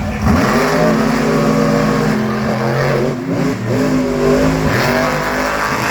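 Monster truck engines racing at full throttle in a straight-line drag race, the engine note jumping up just after the start and then rising and falling in pitch several times.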